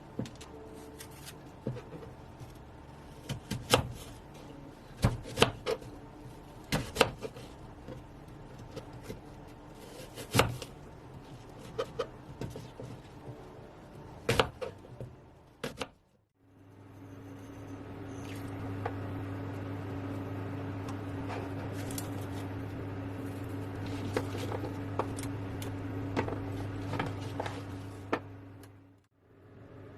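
Kitchen handling: scattered clicks and knocks of utensils and containers for about the first half. After that a small electric appliance hums steadily for about thirteen seconds, with a few light clicks on top, and then stops suddenly.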